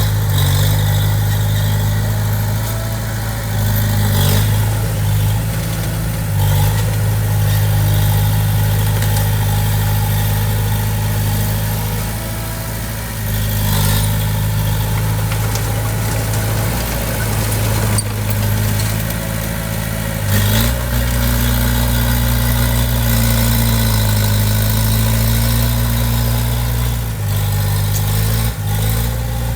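Heavy machine's diesel engine running steadily, its pitch and load shifting a few times. Now and then a sharp knock or clank sounds over it.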